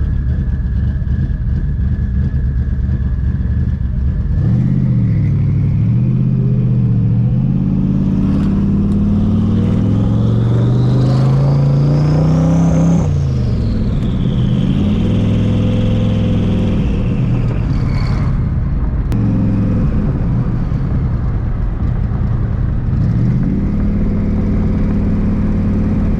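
Twin-turbo Ford Mustang Cobra V8 accelerating: the engine note climbs steadily for several seconds with a high turbo whine rising above it, then drops suddenly at a gear change about halfway through. A shorter pull and drop follow, and the revs start climbing again near the end.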